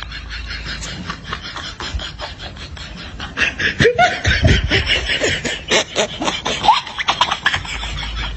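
People laughing in quick bursts of giggling and snickering, getting louder about three and a half seconds in and easing back near the end.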